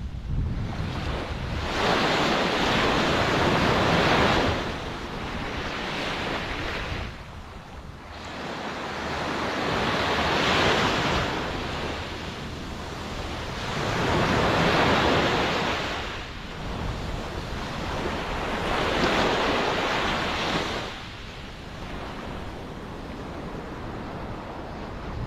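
Ocean waves breaking and washing in, swelling and falling in slow surges about every four to five seconds, with wind on the microphone.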